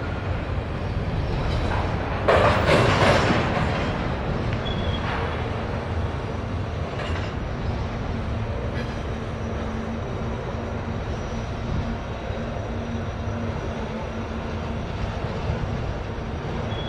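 Double-stack container train rolling across a steel girder flyover: a steady rumble of wheels on rail and passing cars. About two seconds in there is a louder rush lasting about a second, and a faint steady hum joins in later.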